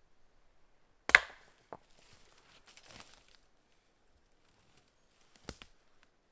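An axe striking wood: one sharp, loud chop about a second in, a fainter knock just after, then scattered knocks and rustling, and a second sharp strike near the end.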